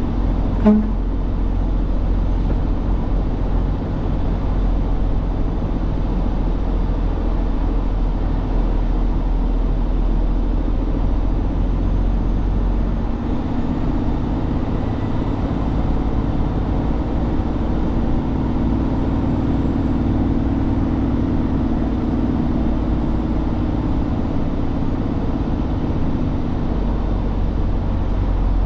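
Steady rumble of a truck on the road, engine and road noise, with a short horn toot under a second in.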